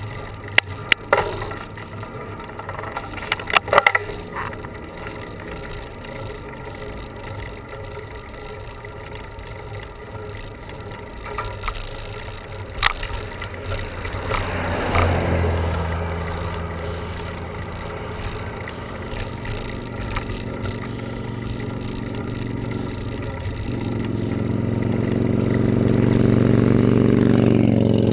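Bicycle riding noise on a paved road, with a few sharp clicks in the first seconds. From about halfway a motor vehicle comes up, and its engine grows louder and is loudest near the end.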